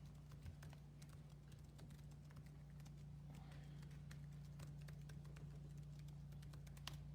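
Near silence: a steady low hum with faint, irregular clicks scattered through it.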